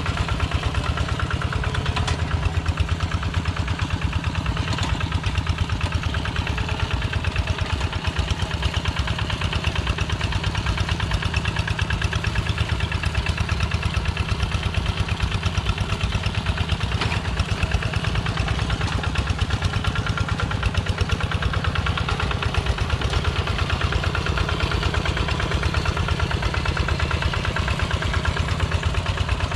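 Engine of a Kubota Quick G1000 two-wheel walk-behind tractor running steadily, with a fast, even pulse that stays the same throughout.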